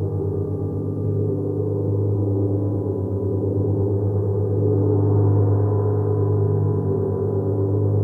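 Gong sounding continuously, a deep wash of many steady overtones with a fast pulsing flutter in the low end, swelling slightly around the middle.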